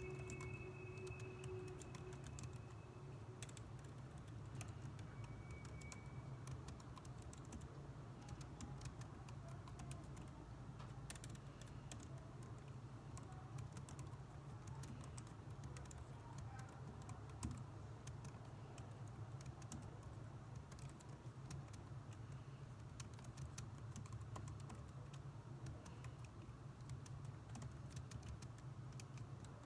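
Typing on a computer keyboard: irregular keystroke clicks throughout, over a steady low background hum.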